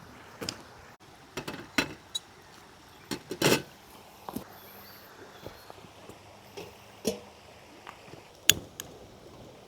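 Irregular knocks and light clinks of hard objects being handled, over a faint steady hiss. The louder knocks come about three and a half seconds in and near the end.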